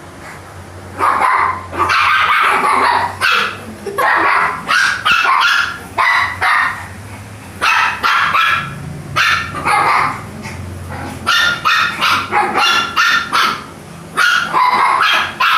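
Puppies yapping and yipping: a long series of short, high barks in quick runs, with brief pauses between them.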